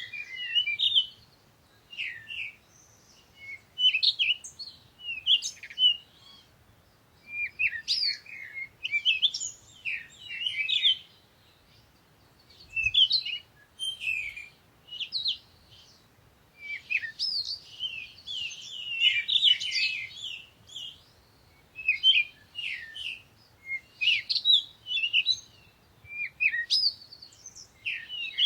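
Songbirds chirping and singing in short, quick, high-pitched phrases that follow one another every second or two, with brief pauses between them.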